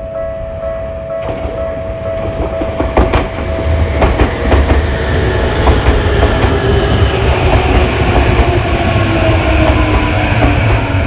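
Electric commuter train running through a level crossing, its wheels clacking over rail joints and rumbling, louder from about two seconds in, with a whine that falls slowly in pitch. The crossing's warning bell rings steadily underneath.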